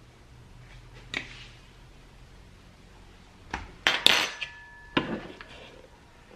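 Kitchen utensils clinking and clattering against dishes: one knock about a second in, then a quick cluster of clatters in the second half, one of them ringing briefly like metal.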